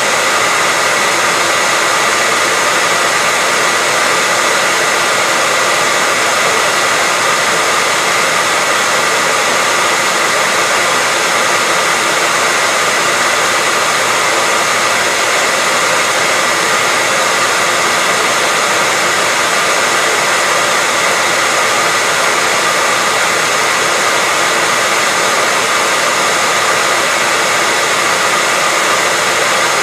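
Hair dryer running continuously: a steady, unchanging rush of air with a faint whine, played as white noise for sleep.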